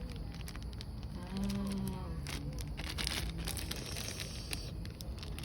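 Plastic food packaging crinkling and crackling as it is handled and opened, busiest from a couple of seconds in to near the end, with a short hummed voice sound early on.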